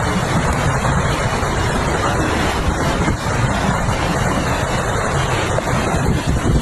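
Loud, steady rush of typhoon wind and rain, with a low rumble of wind buffeting.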